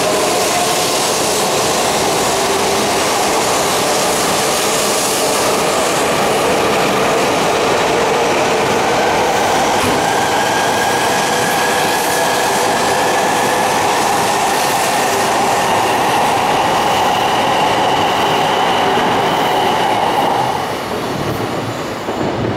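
Coupled E4 series and E3 series Shinkansen trains pulling out and passing close by. A whine rises in pitch as the train gathers speed, over loud wheel and rail noise. It drops away as the last car clears, about 20 seconds in.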